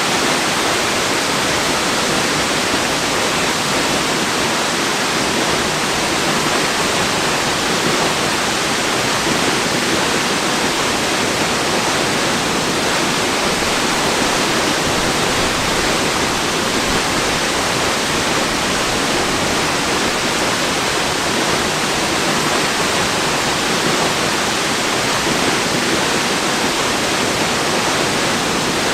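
Waterfall: water falling in a steady, even rush with no changes.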